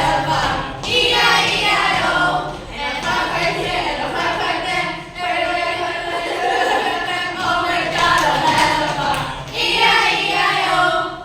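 A group of voices singing together without instruments, in phrases of held notes with short breaks between them.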